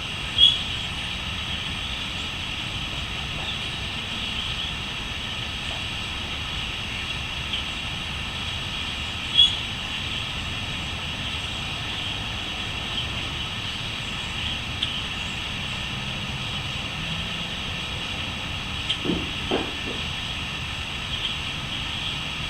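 Crickets chirping in a steady, continuous high-pitched chorus, with a few brief sharper calls standing out, over a steady low rumble.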